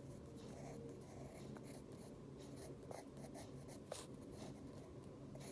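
Faint pencil scratching on paper: a run of short, irregular strokes, with a few sharper ticks.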